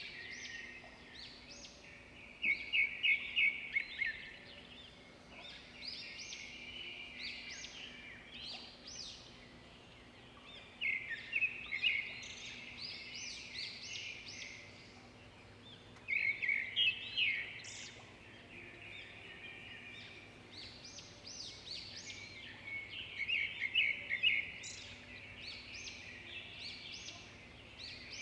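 Swiftlets twittering: continuous high chirps, with loud bursts of rapid trilling chatter four times, over a faint steady low hum.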